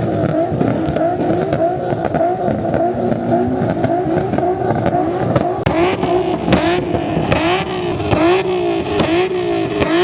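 A car engine being revved over and over, its pitch rising and falling about twice a second.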